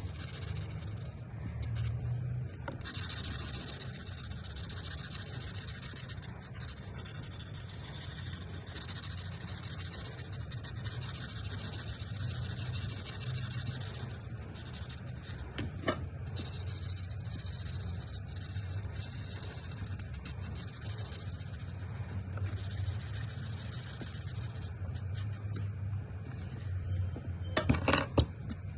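Touch Twin alcohol marker tip rubbing across paper in long stretches of coloring strokes. There is a single sharp click about halfway through and a few louder clicks near the end.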